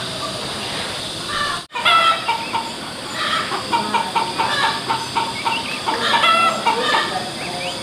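Chickens clucking in a run of short, repeated calls, starting right after an abrupt cut in the sound about two seconds in.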